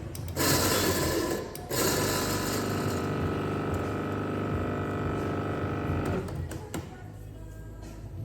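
Electric coffee grinder motor running in two goes: a short, rough burst of about a second, then a steady run of about four seconds that stops.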